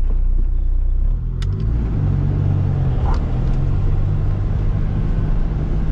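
Inside the cabin of a VW Golf TDI, its turbodiesel engine running at low revs as the car rolls slowly. The engine note dips and changes about a second in, then runs steadily, with a couple of short clicks in the middle.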